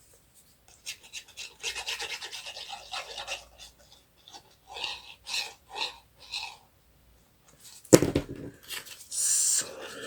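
Paper being rubbed and handled by hand: a run of quick rubbing strokes, then several separate scrapes, a sharp knock about eight seconds in and a short hiss near the end.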